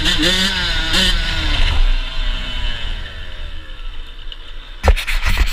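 Yamaha YZ85 single-cylinder two-stroke dirt bike engine blipping its revs up and down, then its pitch falling steadily as it comes off the throttle and fades over a couple of seconds. Near the end, a burst of loud knocks and scraping.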